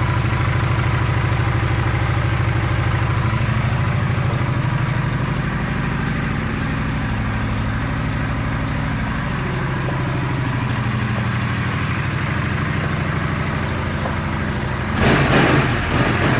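2013 Honda Shadow 750 Phantom's 745 cc V-twin idling steadily with a fast, even pulse. It turns louder and rougher suddenly near the end.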